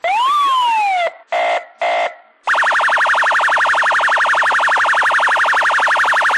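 Electronic siren and alarm tones: a wail that rises and falls, cut off about a second in, two short buzzy blasts, then a fast, steady pulsing alarm tone.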